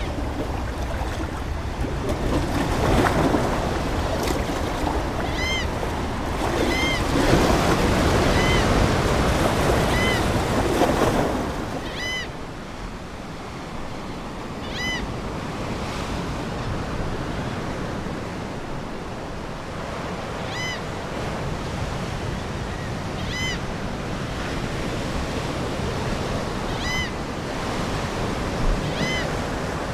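Ocean waves washing ashore, a steady rush that swells for the first ten seconds or so and then eases. Short, high seagull calls repeat over it every second or two.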